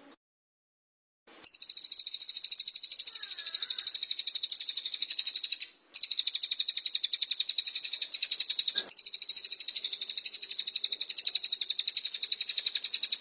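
Songbird's rapid, even trill of high, sharp notes, about ten a second, starting about a second in with a brief break near the middle.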